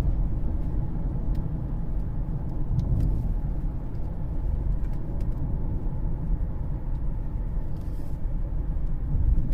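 Steady low rumble of road and driveline noise inside a 2013 Cadillac CTS cruising, with the driveshaft turning. The car runs very quiet after its new differential and driveshaft repair.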